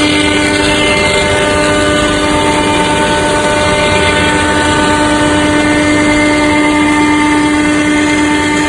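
SUDIAO automatic tool changer CNC router running on aluminium panel, its spindle giving a loud, steady whine of several held tones over a hiss.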